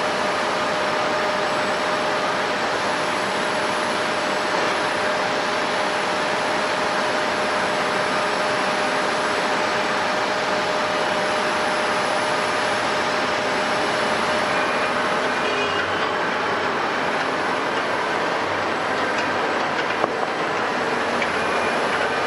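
Jet airliner's turbofan engines running at steady power: a constant rushing roar with steady whine tones on top, one of which fades out a little past halfway.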